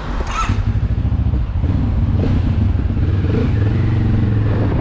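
Benelli TRK 702's parallel-twin engine running at low revs with a steady, even rumble.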